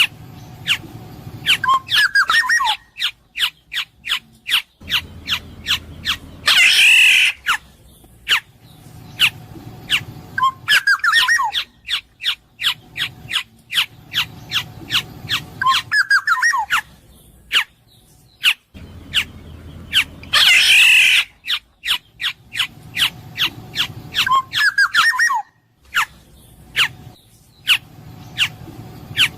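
Black-naped oriole (kepodang emas) calling: clusters of short fluting whistles, and twice a long harsh nasal squawk, over many sharp clicks. The same sequence repeats about every 13 seconds.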